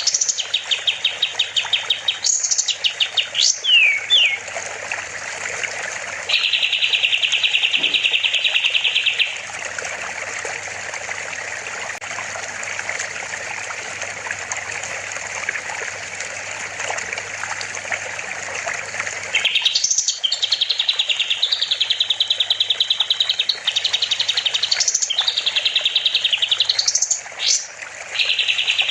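Kapas tembak songbird singing fast, buzzy trilled phrases of rapidly repeated notes over a steady trickle of water. The song stops for about ten seconds in the middle, leaving only the water, then resumes in a run of trills.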